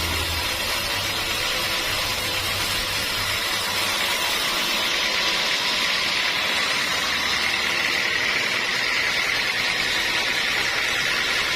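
Sawmill saw running steadily: a continuous noisy hiss over a low machine hum, growing brighter about halfway through.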